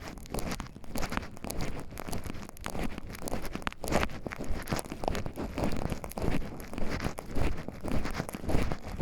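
Footsteps crunching and rustling over a forest floor of leaves and twigs, a stride or two every second.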